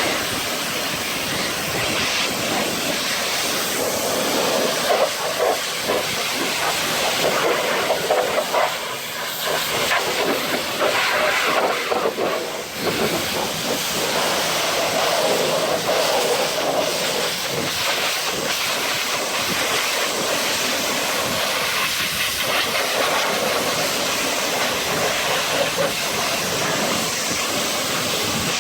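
Pressure washer spraying foam through a dual foamer onto a truck: a steady, loud hiss of spray that swells and fades as the wand moves over the surface.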